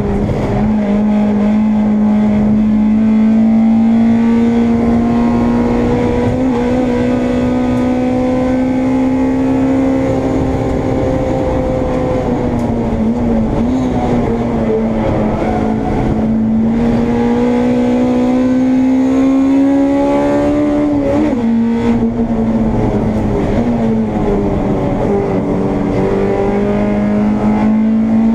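Honda Integra race car's engine heard onboard under racing load, its note climbing slowly as it pulls through the gears. The note drops sharply about halfway through and again about three-quarters through, then climbs once more near the end.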